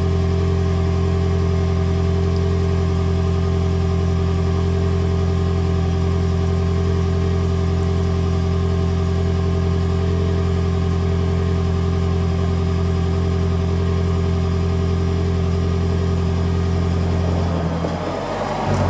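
Toyota Prius's 1.8-litre four-cylinder petrol engine held running in maintenance mode at a steady fast idle, heard through a Tanabe Medalion Touring cat-back exhaust as an even low note. Near the end the steady note breaks up as the engine speed changes.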